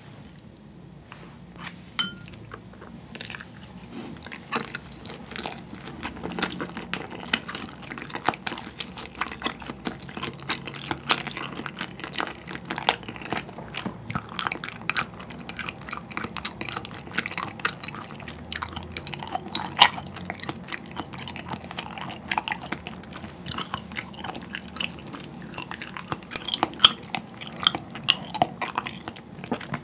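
Close-miked chewing of soy-sauce-marinated salmon sashimi and rice: wet, sticky mouth smacks and soft squishy clicks. The salmon has firmed up and turned chewy in the marinade. The chewing is sparse for the first few seconds, then thick and busy.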